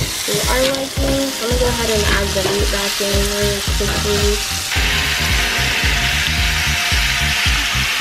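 Fajita peppers and onions sizzling hard in a hot cast iron skillet as they are tossed with metal tongs, over background music with a steady beat. About halfway through, the sizzle gets louder and the melody drops out.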